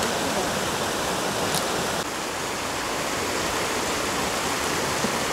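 Steady rush of a shallow river flowing fast at a ford.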